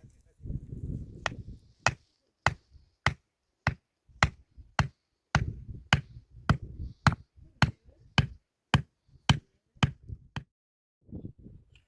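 Steady chopping: about seventeen sharp strokes of a knife or cleaver coming down on a cutting board, a little under two a second, each with a dull thud, stopping shortly before the end.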